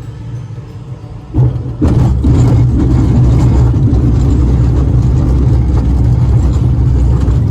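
Glider touching down: a steady airflow hiss gives way, about a second and a half in, to a loud, steady rumble from the glider's main wheel rolling along the runway.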